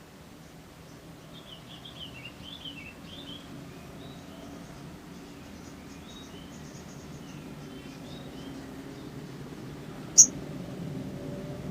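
Faint, scattered high chirps and twitters of a small songbird, with one short, loud, high chirp about ten seconds in, over a low steady background hum.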